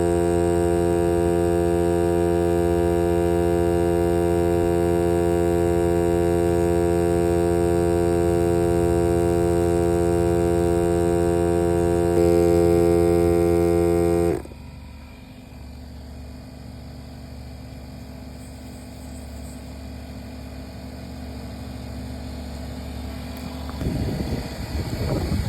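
Air compressor of a NOCO AX65 jump starter and tire inflator running with a steady hum, a little louder about twelve seconds in, then cutting off suddenly about fourteen seconds in. A faint low background noise follows, with some irregular rumbling near the end.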